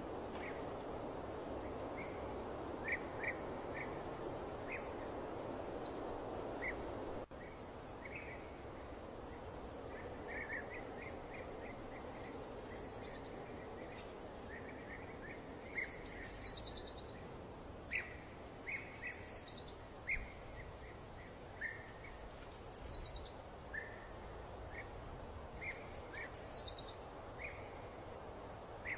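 Birds singing over a steady background noise: scattered short chirps, then a phrase of quick falling whistles repeated every few seconds. The background noise drops a little about a quarter of the way in.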